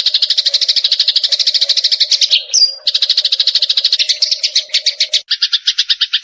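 Eurasian tree sparrow chattering in a fast trill of rapid repeated notes, about a dozen a second. The chatter breaks for a short rising note near the middle, and near the end it shifts to a lower, doubled trill.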